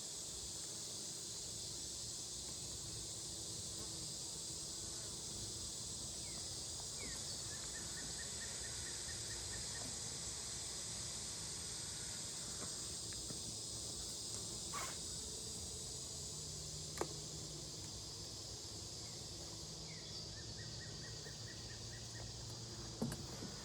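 Steady high-pitched chorus of insects, with a lower hum underneath and a couple of sharp clicks about two-thirds of the way through.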